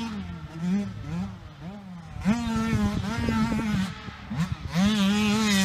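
KTM 105SX two-stroke motocross engine revving: a few short throttle blips, then two longer pulls held at high revs, the first about two seconds in and the second near the end.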